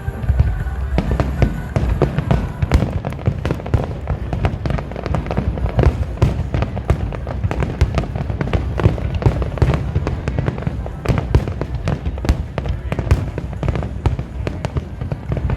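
A fireworks display going off in a dense, continuous barrage: many sharp bangs and crackles in quick, irregular succession over a deep rumble.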